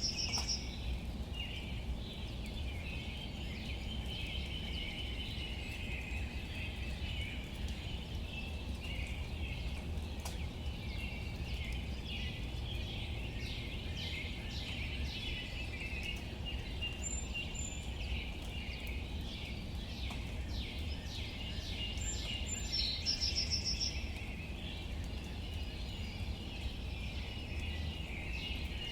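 Light rain pattering and dripping on leaves over a steady low rumble, with birds chirping throughout and a brief rapid trill about three quarters of the way through.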